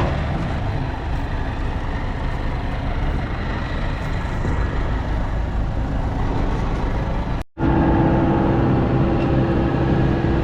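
Heavy diesel vehicle engine running steadily under load. It cuts out briefly about seven and a half seconds in, then returns as a steadier, stronger hum.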